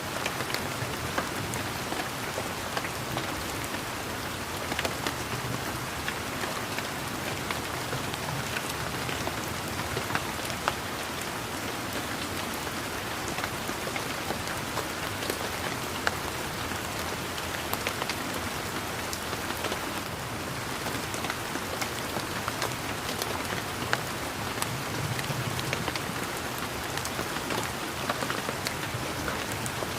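Steady rain falling on leaves and the ground, a continuous patter with many distinct drops ticking close by.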